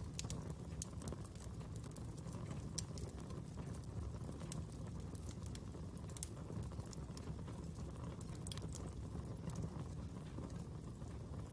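Wood fire burning: a steady low rumble with irregular sharp crackles and pops scattered throughout.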